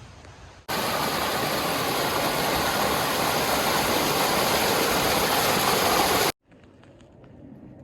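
Steady loud rush of flowing creek water, starting abruptly a little under a second in and cutting off suddenly near the end.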